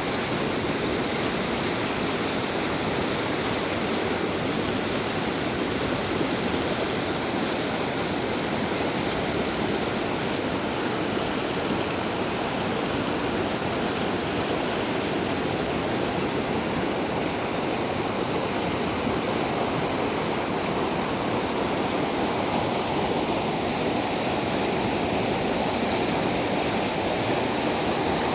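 Waterfall: water pouring and rushing in a steady, unbroken noise.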